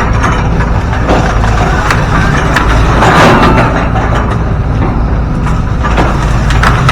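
Hydraulic excavator's diesel engine running steadily under load, with scattered cracks and snaps of bamboo and wood as the machine tears out the clumps.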